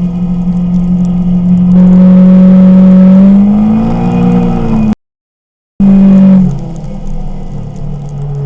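Kawasaki Teryx KRX 1000 side-by-side's parallel-twin engine running under way. It gets louder about two seconds in and rises in pitch. The sound then cuts out completely for under a second and comes back, settling to a lower, steadier pitch near the end.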